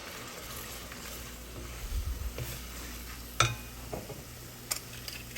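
A butter-and-flour roux with chicken base sizzling in a pan while it is stirred, just deglazed with a splash of chicken stock. A sharp knock of the utensil against the pan comes about three and a half seconds in, and a lighter click near the end.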